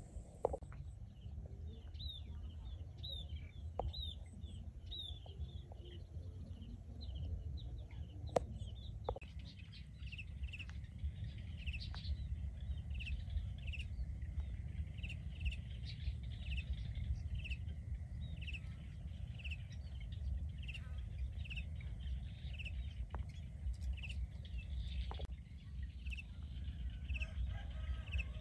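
Small birds chirping: short calls repeated about once a second, with quicker, falling chirps in the first third, over a steady low rumble and a few sharp clicks.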